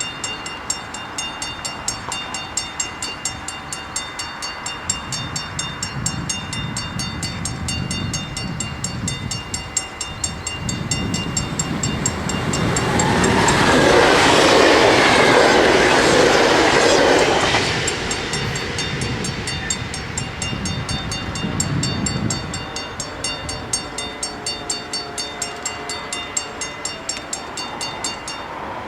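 Dutch level-crossing warning bells ringing in a steady, regular beat while a train passes through the crossing, its noise swelling to a loud peak about halfway with rhythmic wheel beats over the rail joints, then fading. The bells stop near the end as the crossing clears.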